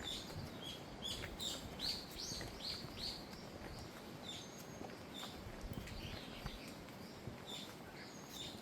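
Small birds chirping faintly in short, repeated high calls over a low outdoor hiss. The calls come thickest in the first few seconds and thin out after.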